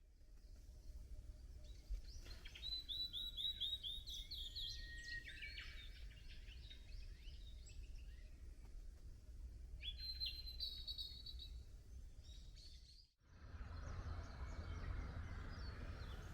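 Wild songbirds singing outdoors in bursts of quick, high, repeated notes over a low steady rumble. About 13 seconds in, it cuts abruptly to a different, hissier outdoor background.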